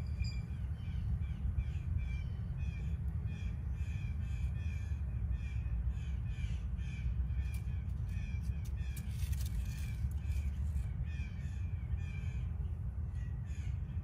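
A bird calling over and over in short notes, about two or three a second, over a steady low rumble.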